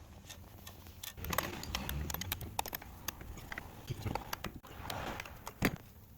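A run of irregular clicks and knocks, loudest just before the end, with a rustling hiss around two seconds and again around five seconds in.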